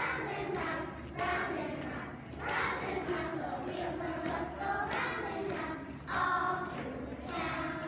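A group of children singing and chanting together in unison, unaccompanied, in short phrases with brief breaks between them.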